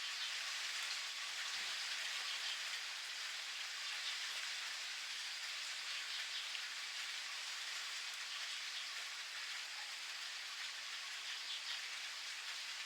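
Steady rain falling and pattering on surfaces, with many fine drop impacts making an even hiss at a constant level.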